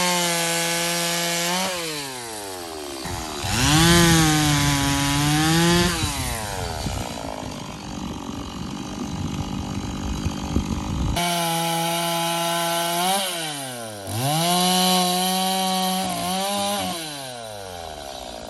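Two-stroke chainsaw revving in repeated bursts, its engine note dropping between them. For about five seconds in the middle the pitch sags and turns rough as the chain cuts into wood under load.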